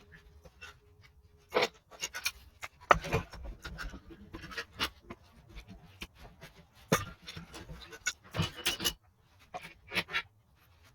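Irregular clicks, taps and knocks of tools and small parts being handled during a rebuild of a Honda Wave 110i motorcycle engine, with short quiet gaps between them.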